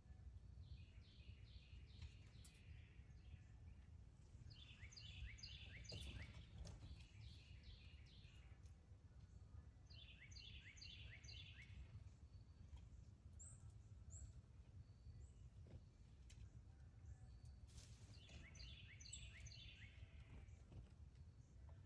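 A songbird singing the same short phrase of rapid notes four times, each about two seconds long and several seconds apart, faint over a steady low background rumble. A couple of faint clicks.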